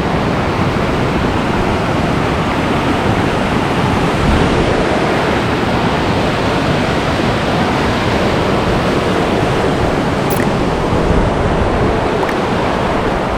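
Steady, loud rush of the Siebenbrunnen karst waterfall, water pouring straight out of the mountainside.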